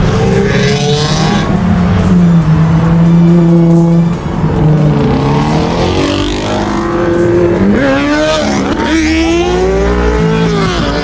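A car engine revving hard, its pitch climbing and dropping several times in the second half, with tyre squeal as cars do burnouts and doughnuts.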